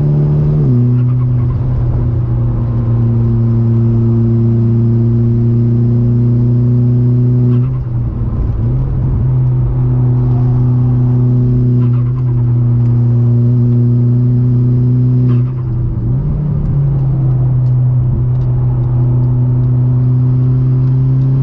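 Car engine running loud at a steady pitch. Twice, about eight and sixteen seconds in, the pitch drops and comes back up, then holds steady again.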